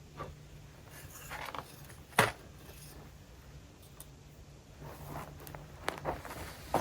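Scattered light clicks and rustling handling noises, with one sharp click about two seconds in and a few more near the end, over a faint steady low hum.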